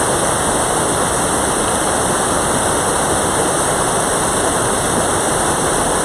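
Mountain valley stream rushing, a steady, loud hiss of flowing water.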